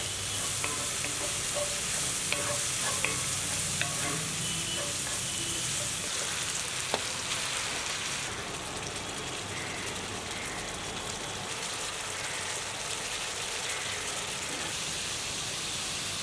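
Chicken curry sizzling in hot oil in a pan while being stirred, with a steady hiss and a few sharp clicks of the utensil against the pan in the first half.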